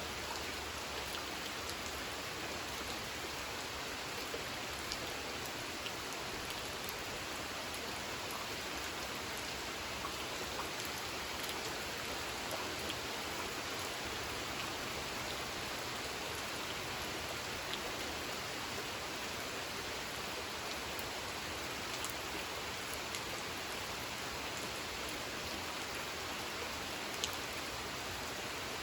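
Steady rain falling on a pond, a dense even hiss with scattered individual drop ticks.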